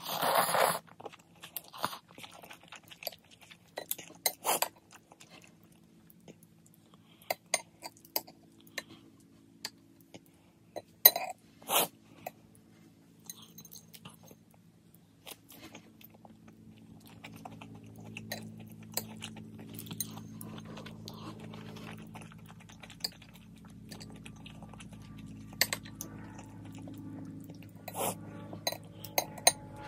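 Close-up eating sounds: a loud slurp of spicy instant noodles at the start, then chewing of the noodles and fried spam with scattered wet clicks and smacks. A low steady hum comes in about halfway.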